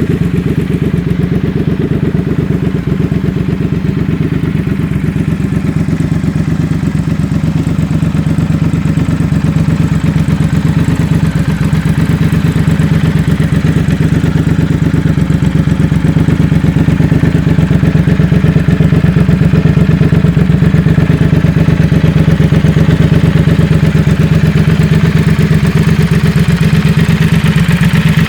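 Triumph Thruxton 1200 RS's 1200 cc parallel-twin engine running at a steady idle, a rapid even pulsing that grows slightly louder about halfway through.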